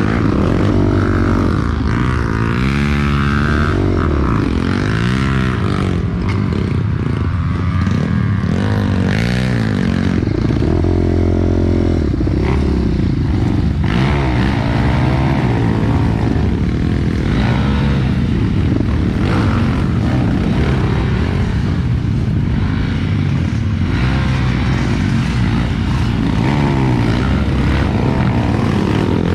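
Trail motorcycle engine running under load, its revs rising and falling repeatedly as the throttle is worked over rough, muddy ground.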